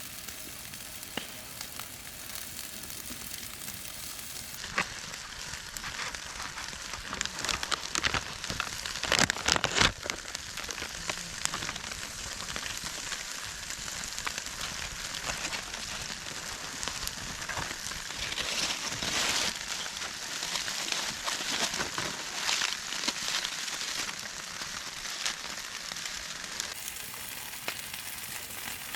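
Food sizzling and frying in a pan, a steady hiss dotted with sharp crackles and pops that are loudest about eight to ten seconds in.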